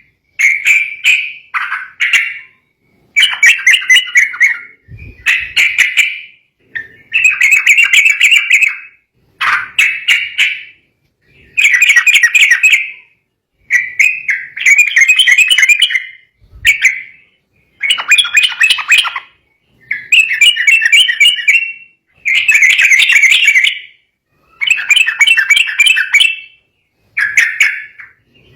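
Sooty-headed bulbul (trucukan) singing agitated song: loud, chattering phrases of one to two seconds, repeated over and over with short gaps between them.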